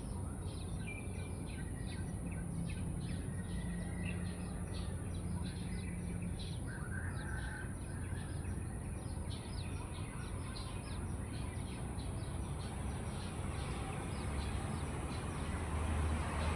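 Many birds chirping in quick succession, with a few longer whistled calls among them, over a steady high-pitched hiss and a low hum.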